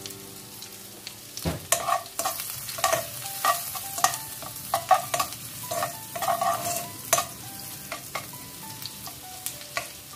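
Sliced garlic sizzling in melted butter in a wok over a low flame. From about a second and a half in, a slotted metal spoon stirs it, scraping and clicking against the pan many times.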